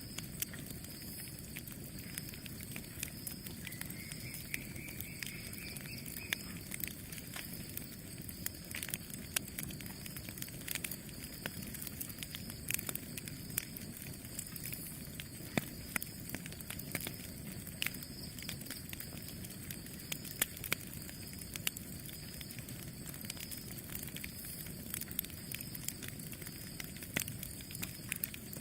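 Campfire crackling: a steady low rush of burning wood with sharp, irregular pops and snaps throughout. A faint high whistling tone rises briefly from about four seconds in.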